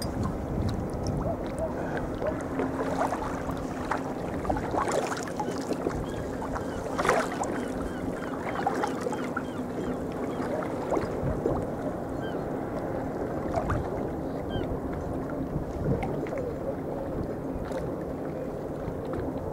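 Water splashing and lapping around a sea kayak as it is paddled, with irregular small splashes from the paddle blades.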